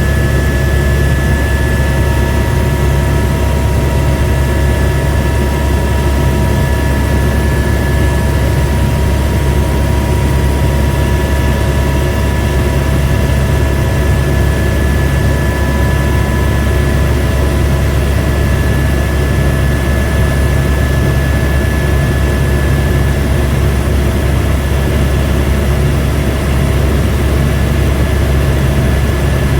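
Airbus AS350 B2 helicopter running steadily: a heavy, even drone from the rotor and turbine, with thin, steady turbine whines above it.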